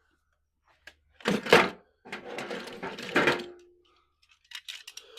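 Hard objects being handled and set down: a loud knock and clatter about a second in, more clatter with a short metallic ring over the next couple of seconds, then a few light clicks near the end.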